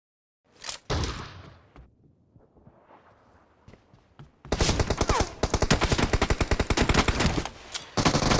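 Video-game gunfire. After a moment of silence comes one loud shot about a second in, then a few scattered shots. From about four and a half seconds in there is rapid, sustained automatic fire that breaks off briefly near the end and starts again.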